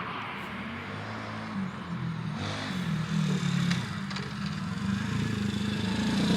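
125cc single-cylinder four-stroke pit bike engine running and revving as the bike is ridden, its note wavering up and down and growing louder near the end.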